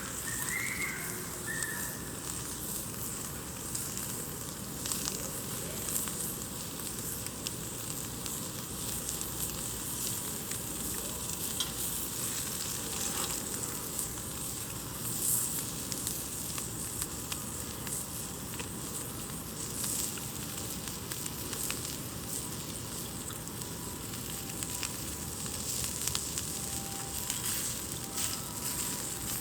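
Campfire burning: a steady hiss with scattered pops and crackles from the burning wood.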